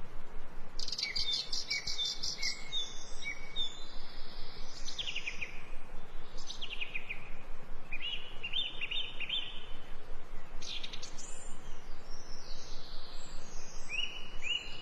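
Small birds chirping and calling repeatedly over a steady background hiss. There is a fast series of notes about a second in, and runs of short falling chirps around five and seven seconds in.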